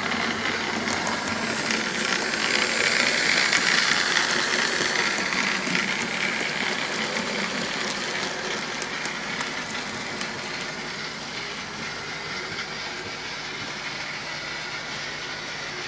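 OO gauge model train running on the layout's track: wheel and motor running noise that grows louder as the train comes close, about three to four seconds in, then slowly fades as it moves away, with a few light clicks over the rails.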